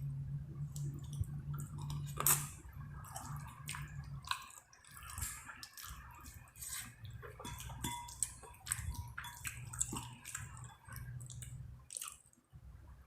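Wet close-up eating sounds as a mouthful of chicken, lobster and shrimp alfredo is chewed: many small smacks and clicks over a low steady hum.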